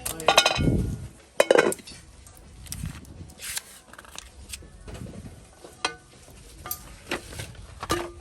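Scattered clinks and clatter of hard objects being handled, loudest in the first two seconds, then lighter ticks and knocks.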